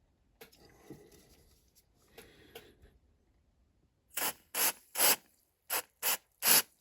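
Aerosol super glue activator sprayed in six short hissing bursts over the last few seconds, hardening the glue; before them, quiet rustling of handling.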